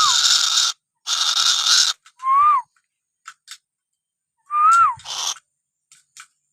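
A captive tuwu bird calling: short whistled notes that rise and then drop, alternating with harsh hissing bursts about a second long.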